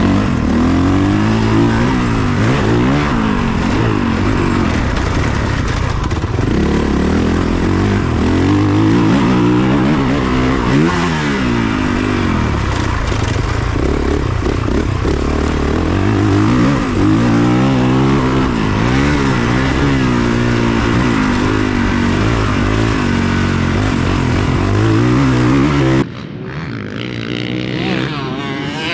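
Dirt bike engine being ridden hard, revving up and dropping off again and again as the rider shifts and brakes through the corners. About 26 seconds in the sound cuts off abruptly to a quieter engine sound.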